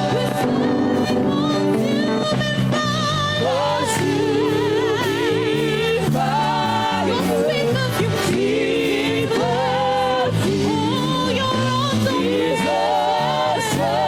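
Gospel worship music: voices singing held, wavering notes over sustained keyboard or organ chords.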